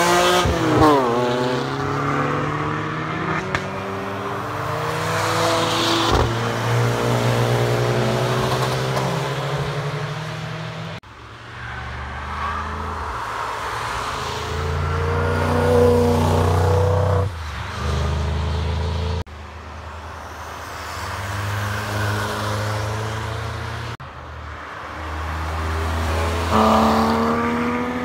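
Cars passing one after another at speed on a racetrack, engines revving hard and dropping in pitch as each goes by. The sound changes abruptly between passes, three times.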